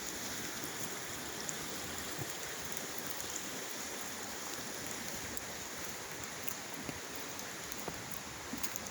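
Steady wash of rain and flowing creek water, with a few faint drop ticks now and then.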